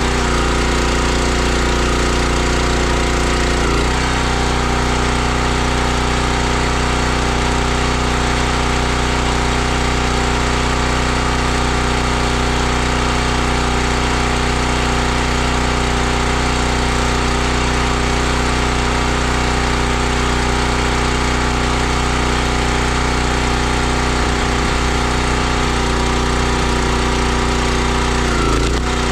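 Gas engine of a 32-ton log splitter running steadily, its note changing briefly about four seconds in and again near the end.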